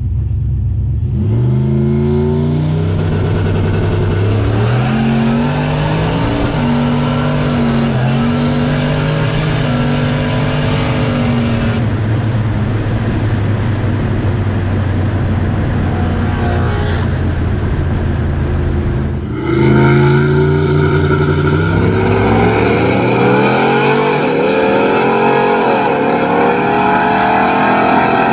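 Turbocharged LS V8 of a Chevy C10 truck accelerating hard through the gears: the engine pitch climbs and drops back at each of about three shifts, then holds steady. About two-thirds of the way through the sound cuts abruptly to a higher, busier sound whose pitch wavers up and down.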